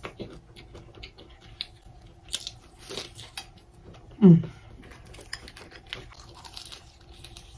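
Close-up chewing and crunching of a Hot Cheetos-crusted lobster tail: many small crisp crackles and wet mouth sounds. About four seconds in there is one short, louder voiced sound that slides down in pitch.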